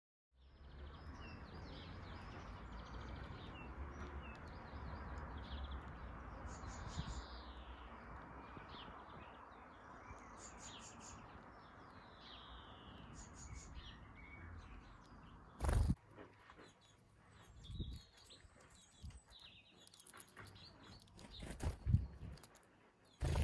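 Garden birds chirping, many short calls over a steady low background rumble. From about two-thirds of the way in, a few loud sudden thumps cut through.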